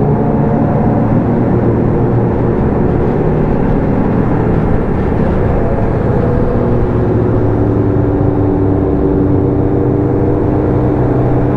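Motorcycle engine running steadily. Its pitch blurs around the middle and holds level again in the second half.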